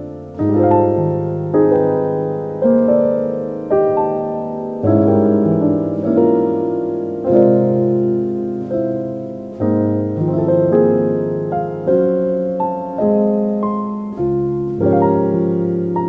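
Slow, soft solo piano music, notes and chords struck about once a second and left to ring and fade.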